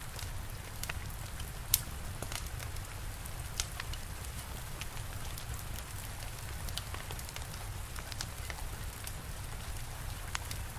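Steady rain falling, with a fire crackling over it in scattered sharp pops. The loudest pop comes about two seconds in.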